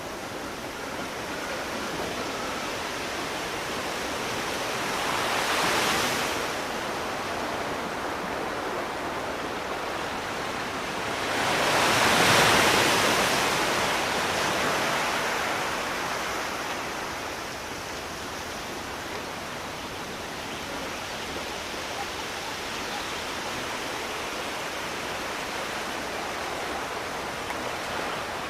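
Sea waves washing ashore: a steady rush of surf that swells twice, briefly about six seconds in and more strongly about twelve seconds in, each time easing back.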